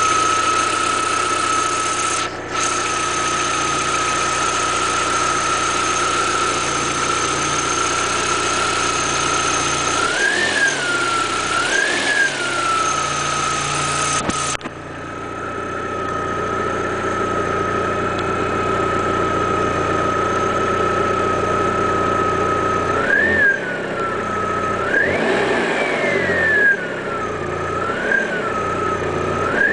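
Car alternator whining over the running engine: a steady high whistle that rises and falls in pitch each time the engine is briefly revved, about six times.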